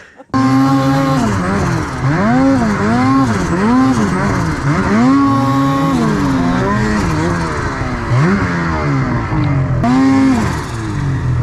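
Snowmobile engine revving hard, its pitch swooping up and down about once a second as the throttle is worked through a maneuver. It starts abruptly just after the beginning.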